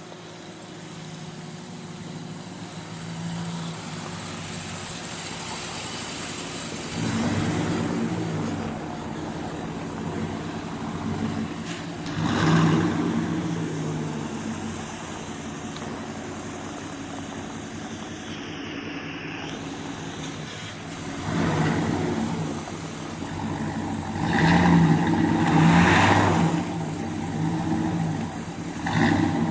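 An engine running steadily, surging louder several times as it revs or comes close, most strongly in the second half.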